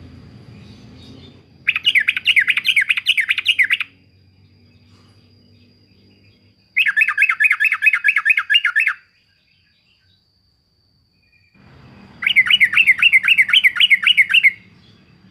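Yellow-vented bulbul giving three bouts of its rapid chattering call, each a quick run of about ten repeated notes lasting about two seconds, with pauses of a few seconds between bouts.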